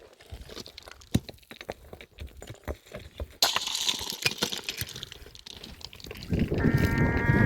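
Small clicks and knocks, then liquid pouring or splashing from about halfway through. Near the end a farm animal starts a long bleat.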